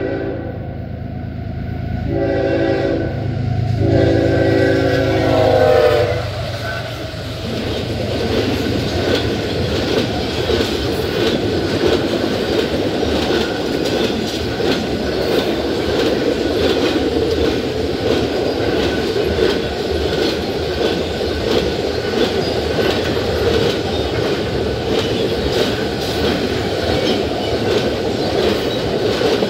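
Diesel freight locomotive horn sounding in blasts over the locomotive's engine rumble, its pitch dropping about six seconds in as the lead locomotive passes. Then the cars of an intermodal freight train roll by with a steady rumble and a repeating clickety-clack of wheels over rail joints.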